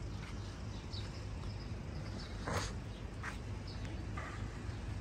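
Small birds chirping in short, high calls over a steady low background rumble, with a sharper, louder short sound about two and a half seconds in.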